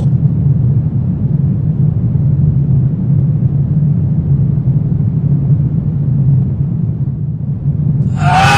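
Low, steady rumbling drone of a horror ambience soundscape. Near the end a higher, pitched sound with several tones comes in over it.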